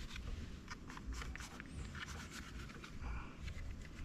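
Butcher knife cutting through bicycle inner-tube rubber: a run of irregular, rapid scrapes and ticks.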